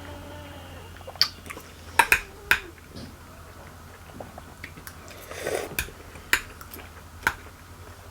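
People eating juicy ripe papaya: wet chewing and mouth smacks with a handful of sharp clicks scattered through, and a brief slurp about five and a half seconds in.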